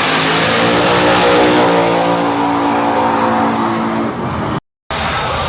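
Race car engine at wide open throttle, a loud steady held note with a rushing hiss above it that thins out after about two seconds. A short gap of silence cuts in near the end, then loud, noisier vehicle sound resumes.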